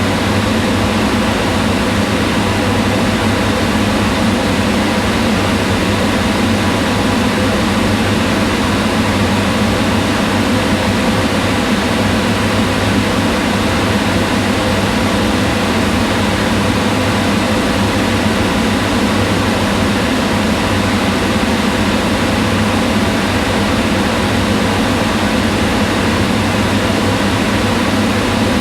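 Kitchen range hood fan running steadily: an even whooshing hum, strongest in the low range, with a few faint steady tones.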